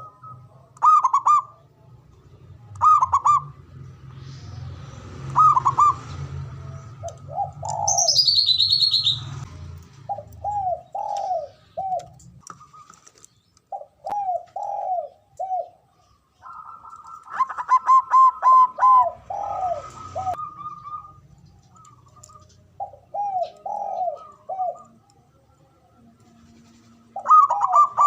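Zebra dove (perkutut) cooing over and over in short groups of arched notes, with a fast run of notes about two-thirds of the way in. A higher, falling whistle from another bird comes about 8 seconds in.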